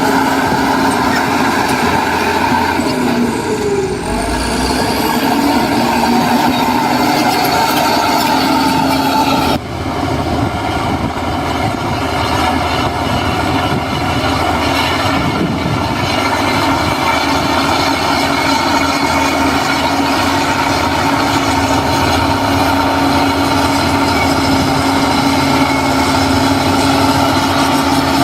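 Heavy diesel earthmoving machinery running steadily under load, its engine note briefly sagging and picking up again about four seconds in.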